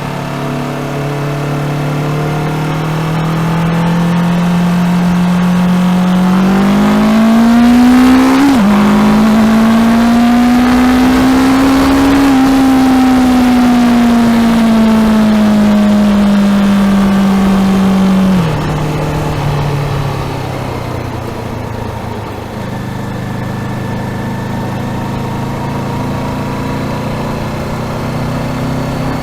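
Honda CBR500R's parallel-twin engine under way: the revs climb, drop sharply at a quick upshift, climb again, then fall steadily for several seconds as the bike slows. About two-thirds of the way through the note drops again and settles to a lower, steadier engine sound.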